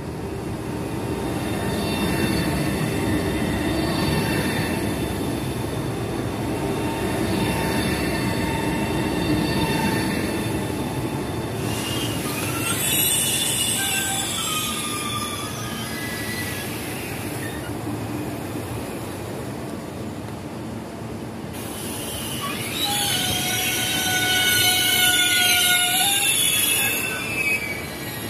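Italo high-speed electric train rolling slowly along the platform with a steady rumble and a faint whine. High, wavering wheel and brake squeals come in about halfway and again, loudest, near the end.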